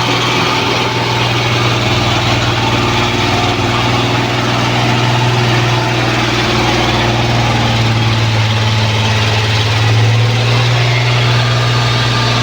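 L&T Case 1107 vibratory road roller running steadily at work, its diesel engine giving a loud, even low hum that holds without a break.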